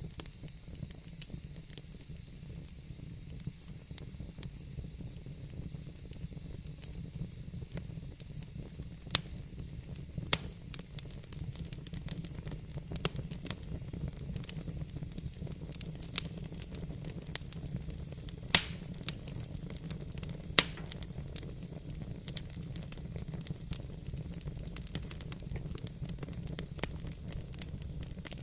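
Wood fire burning in a fireplace: a steady low rumble and hiss with scattered sharp crackles and pops, a few louder ones about 9, 10, 18 and 20 seconds in.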